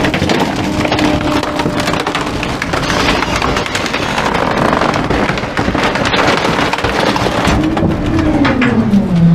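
Garbage truck's compactor crushing bulky wooden items, with dense cracking and splintering over a steady hydraulic hum. Near the end the hum falls in pitch.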